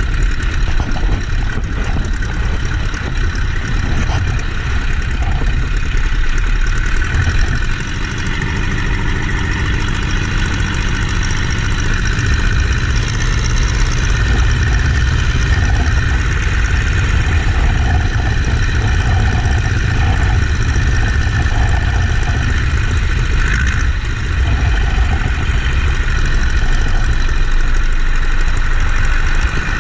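Boeing-Stearman Model 75 biplane's radial engine running steadily and loudly, with little change in level.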